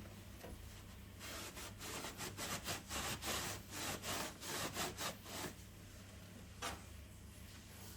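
A hand tool worked back and forth against a hard material, a run of rhythmic scraping strokes about three a second that stops after a few seconds, followed by a single sharp click.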